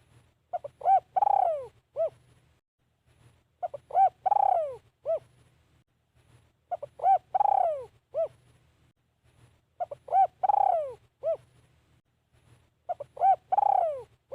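Spotted dove cooing, a caged decoy bird calling: the same phrase five times, about every three seconds, each a couple of short coos, one long falling coo and a short closing coo.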